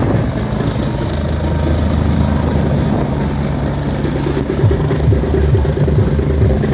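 Helicopter running on the ground with a steady low engine-and-rotor drone; a choppy beat joins in low down about four and a half seconds in.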